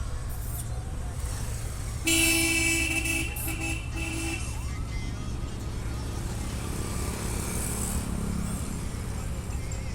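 A horn sounds about two seconds in: one longer toot, then two short ones, over a steady low rumble.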